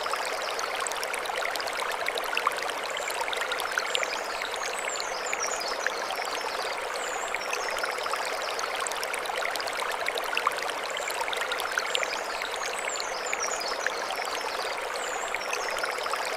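Mountain stream running over stones: a steady rushing babble dotted with small splashes and trickles.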